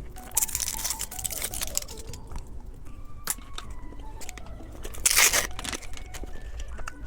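A candy wrapper crinkling and being torn open, with small sharp clicks and taps. There is a louder, sharper tearing rip about five seconds in.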